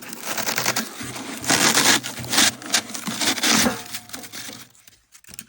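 Packing wedged inside a new mini wood-burning stove being pulled out by hand: irregular rustling and scraping with knocks against the stove's metal body, dying away near the end.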